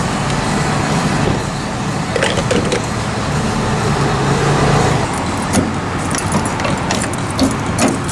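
Motor vehicle running with a steady low hum. Over the last three seconds a string of light clicks and rattles is heard.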